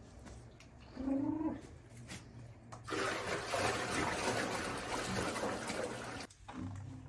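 A short animal call about a second in, then a loud rush like water pouring or gushing for about three seconds that cuts off suddenly, and a brief second call near the end.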